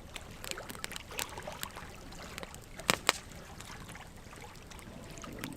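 Burning wood logs crackling in a campfire: irregular sharp snaps and pops over a soft hiss of flame, with two louder pops in quick succession about three seconds in.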